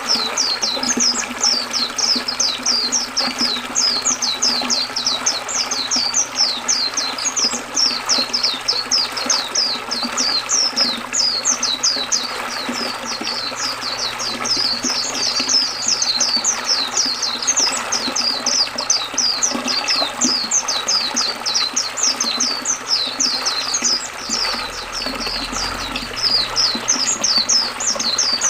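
White-eye (pleci) singing continuously, a fast, dense chatter of short high sweeping notes, several a second, over the steady rush of river water.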